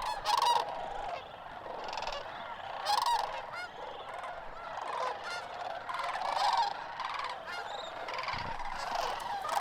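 A large flock of sandhill cranes calling, many overlapping rolling calls at once.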